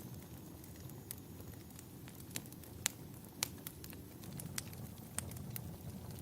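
Wood fire burning in a fireplace: irregular sharp crackles and pops over a low, steady rumble, with the two loudest pops close together about three seconds in.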